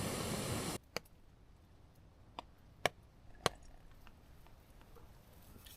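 A camping gas stove burner hissing steadily, then cut off abruptly under a second in, as when the valve is closed once the coffee water is hot. After it, a few light clicks and knocks, like a mug or pot being handled.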